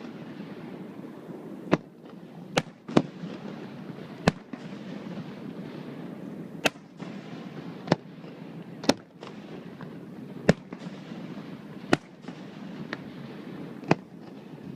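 Fireworks bursting overhead: about a dozen sharp, single bangs at irregular intervals, roughly one to two seconds apart, over a steady low background rumble.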